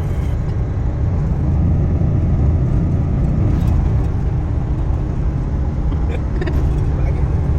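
A loud, steady low rumble of a vehicle running, with no speech over it.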